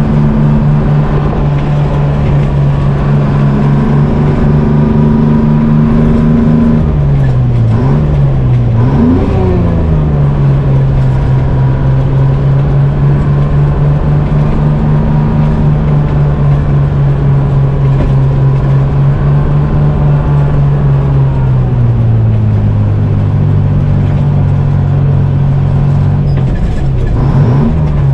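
Detroit Diesel two-stroke V engine of a GMC Crackerbox semi truck running under way. Its steady note drops and climbs again about a third of the way in, as with a gear change, and sags again near the end.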